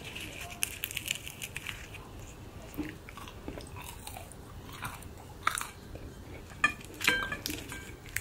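A person biting and chewing a crisp toasted spring onion pancake, with irregular crunches, a few louder ones in the second half.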